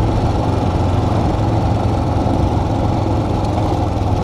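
Royal Enfield motorcycle engine running steadily while riding, its low hum holding an even pitch with no change in speed.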